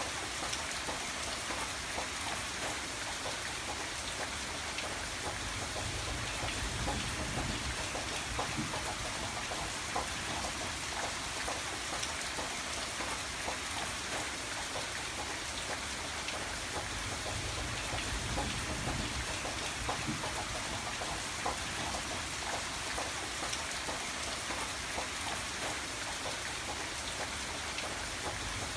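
Steady heavy rain, a dense even hiss sprinkled with many small sharp ticks.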